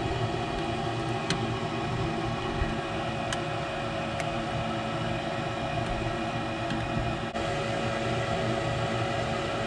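Gas furnace running with a steady mechanical hum and a steady tone, typical of the draft inducer motor running during an ignition attempt, with a few faint clicks.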